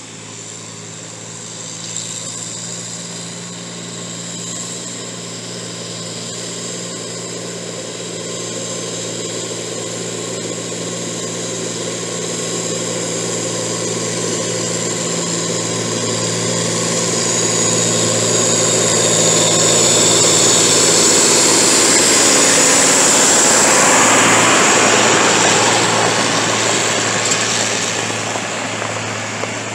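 Vehicle engine running steadily under load while hauling hay. It grows louder through the first two-thirds, peaks about 20 to 25 seconds in, then eases off slightly near the end.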